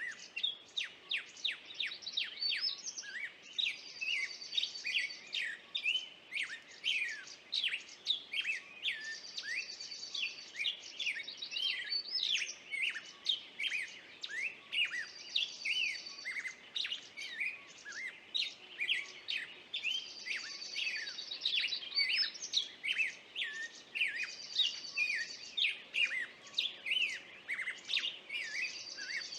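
Several birds chirping in quick, overlapping calls, with a short, high trill repeating every few seconds.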